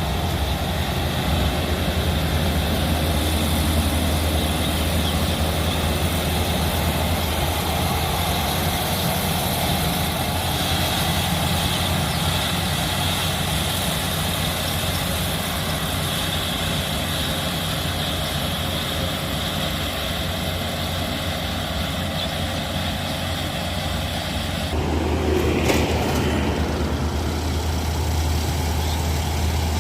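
An engine running steadily at a low, even hum, with a short louder disturbance about 25 seconds in.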